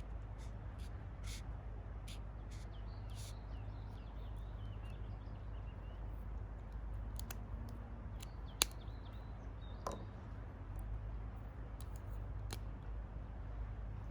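Quiet outdoor ambience with a steady low rumble and faint bird chirps, broken by a few short scratchy strokes and one sharp click a little past the middle.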